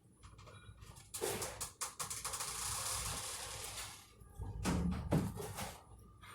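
Plastic wrap crackling as it is pulled and wrapped around cucumbers, a dense crackling hiss for about three seconds, followed by a few knocks as the produce is handled.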